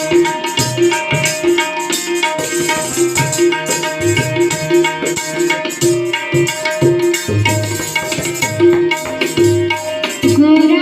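Instrumental interlude of a devotional song: tabla playing a steady rhythm under a sustained melody on a held-note instrument.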